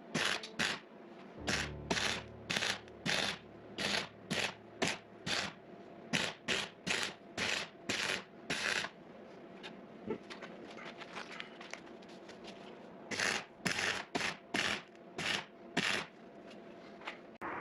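Hand scraping or filing strokes on the cracked metal casting of a perimeter track light, cleaning it back ready for welding. The strokes come about two a second, ease off in the middle, then start again for a few more.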